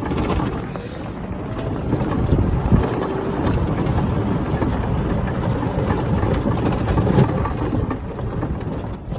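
Old golf cart driving along at speed: a steady running noise with scattered knocks and rattles.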